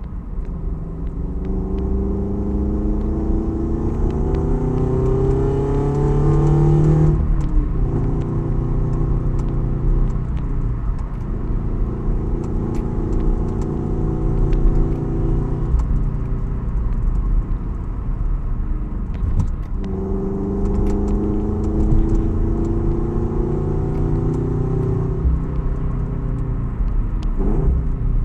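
Toyota 86's FA20 flat-four boxer engine, fitted with an aftermarket unequal-length exhaust header, accelerating through the gears. The engine note rises with revs until about seven seconds in, drops sharply at a gear change, holds steady, then climbs again about twenty seconds in. Near the end the revs swing quickly.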